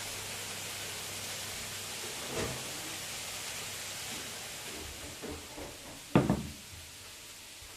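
A steady hiss with a soft knock a couple of seconds in, a few light clicks, then a sharp knock about six seconds in, the loudest sound, like a cupboard door or an object being set down. The hiss fades after the knock.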